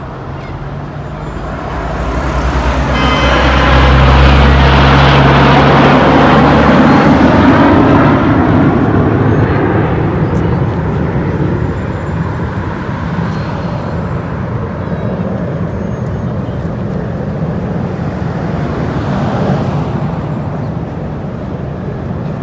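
Aircraft flying past during the air show: a loud engine roar swells up over a few seconds, peaks, then slowly fades, with a smaller swell near the end.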